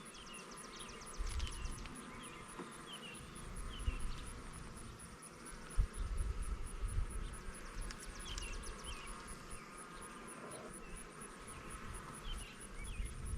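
Honeybees buzzing steadily around an open hive while its honey frames are being handled, with a single knock a little before the middle.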